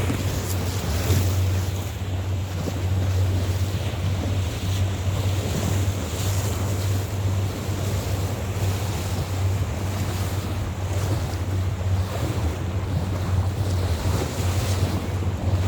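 Motorboat underway: a steady low engine drone under wind buffeting the microphone and the wash of water.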